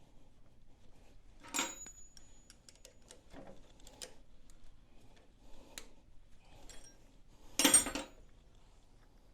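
Metal tools or parts clinking and being set down on a hard surface: a sharp clank with a brief ring about one and a half seconds in, and a louder clank near the end, with lighter clicks and rattles between.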